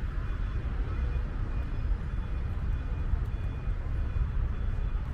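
Steady road traffic noise, a low continuous rumble of passing vehicles.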